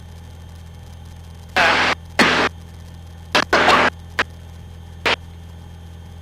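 Aircraft intercom audio: a steady low hum, broken by several short bursts of loud rushing static, two longer ones about two seconds in and shorter ones up to about five seconds in.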